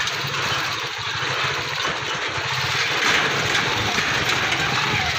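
Motorcycle engine of a tricycle running steadily, heard from inside its sidecar as a low rumble with road noise.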